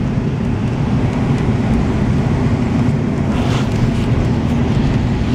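A vehicle on the move: a steady low engine hum and road rumble.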